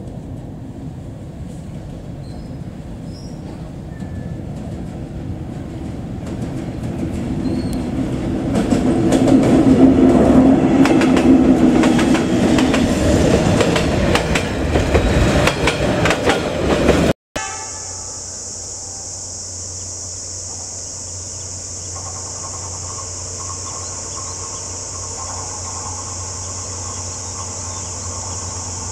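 Diesel-hauled passenger train passing close by: the locomotive's rumble builds, then the coach wheels clatter rapidly over the rail joints, loudest about ten seconds in. After a sudden cut, a steady high hiss sits over the low rumble of an approaching diesel locomotive.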